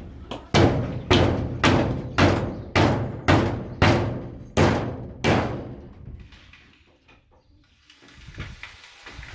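Heavy blows struck on wood, about nine in a steady rhythm of roughly two a second, each ringing briefly, stopping about five seconds in; a couple of soft thuds follow near the end.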